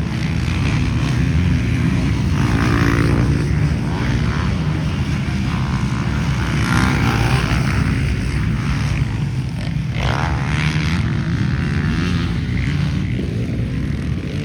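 Motocross bikes running on the track, engines revving up and down with several rising and falling glides.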